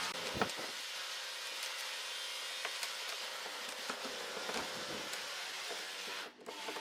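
Wood being worked with a hand tool: a steady scraping or cutting hiss with scattered clicks and knocks, broken briefly about six seconds in.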